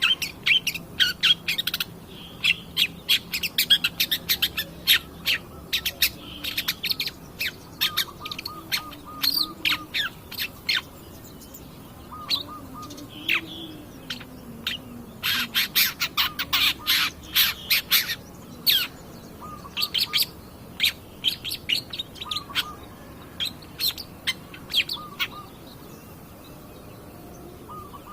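Long-tailed shrike (cendet) singing a fast, harsh chattering song of sharp chirps and quick repeated notes, in dense bursts, falling silent a few seconds before the end.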